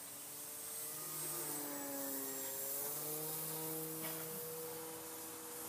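Radio-controlled T-28 Trojan model plane's motor and propeller droning as it flies past. It gets louder, peaks about two to three seconds in, and its pitch drops as it passes, then fades.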